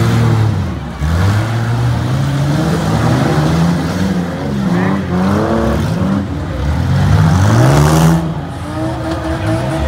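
Several demolition derby cars' six-cylinder engines revving hard, their pitch repeatedly swelling up and falling back as they overlap. There is a sudden loud burst of noise about eight seconds in.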